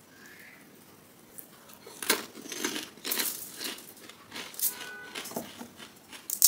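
Close-miked chewing of a mouthful of pani puri, the crisp fried puri shell crunching and crackling. After a quiet start, a run of sharp crunches begins about two seconds in and carries on, unevenly spaced.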